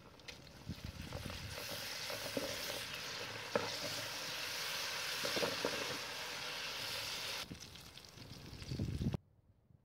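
Onions and barberries sizzling in hot oil in a steel pan, stirred with a wooden spatula that clicks and scrapes against the metal. The sizzle builds about a second in and cuts off suddenly near the end.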